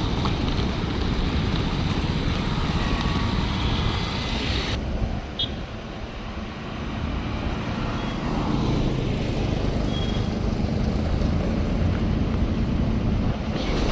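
Road vehicle noise: engines running close by with a steady low rumble. The higher hiss drops away abruptly about five seconds in.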